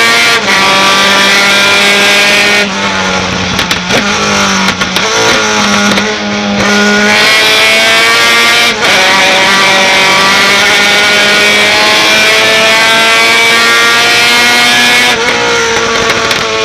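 Racing pickup truck engine running hard at high revs. Its pitch drops and climbs back between about three and seven seconds in, and the sound breaks off briefly a few times.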